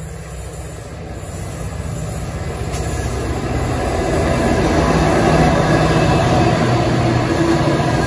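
Coal train's lead diesel-electric locomotives approaching and running past close by over the rumble of hopper wagons. The engine sound grows steadily louder through the first half, then holds.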